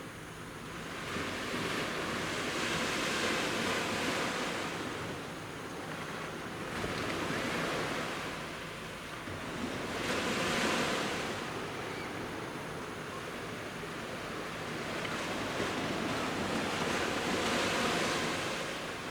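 Sea waves breaking and washing up the shore in slow surges, about four swells of surf in nineteen seconds, each rising and falling away.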